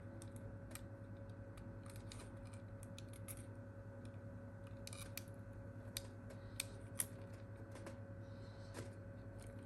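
Scattered light clicks and taps of small phone parts being handled while a replacement screen and its flex cable are fitted into a smartphone, over a faint steady electrical hum.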